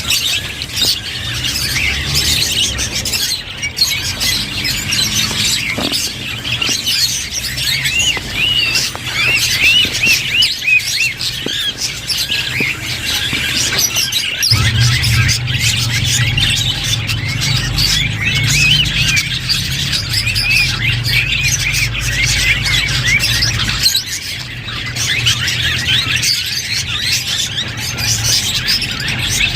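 Budgerigars chattering and warbling: a dense, continuous stream of quick high chirps and twitters, over a steady low hum that grows louder about halfway through.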